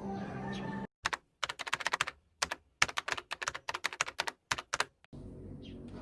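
Typing on a computer keyboard: rapid, irregular keystrokes for about four seconds, with dead silence between the bursts. A steady background sound is there before the typing starts and comes back near the end.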